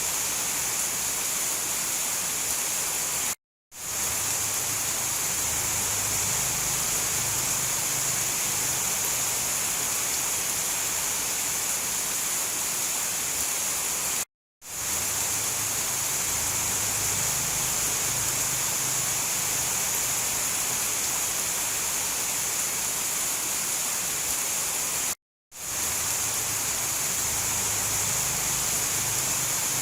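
Steady downpour of heavy rain, an even hiss. It cuts out to silence for a moment three times, about every eleven seconds, and fades back in each time.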